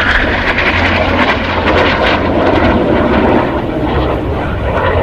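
Turkish Stars' Canadair NF-5 jet fighters, twin-turbojet, flying past in a loud rushing jet noise that deepens in pitch over the first few seconds as they go by.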